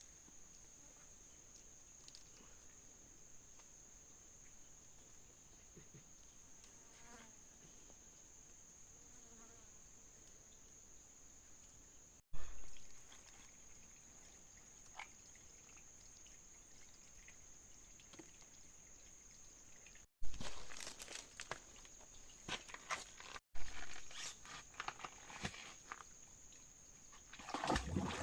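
Insects droning steadily at a high pitch. Irregular clicks and rustles join in for the last several seconds.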